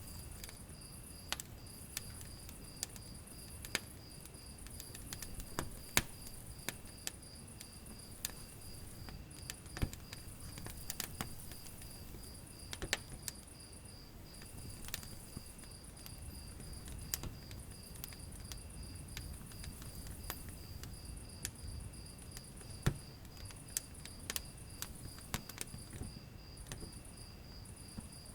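Wood fire in a fireplace crackling, with irregular sharp pops over a low steady rumble of burning. A steady, fast pulsing insect chirring runs beneath it, with a higher chirring that starts and stops in phrases.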